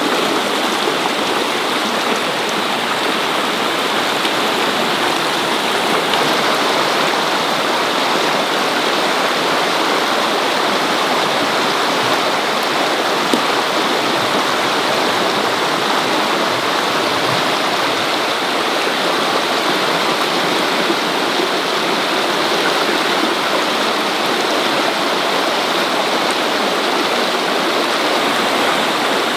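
Loud, steady rushing of water, an even wash with no single drops or strokes standing out.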